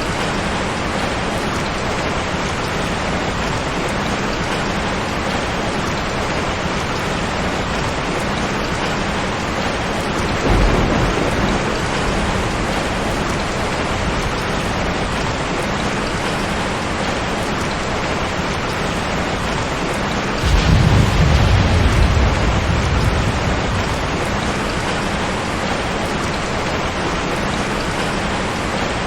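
Steady heavy rain with thunder rumbling twice: a short low rumble about a third of the way in, and a longer, louder one about two-thirds in that fades over a few seconds.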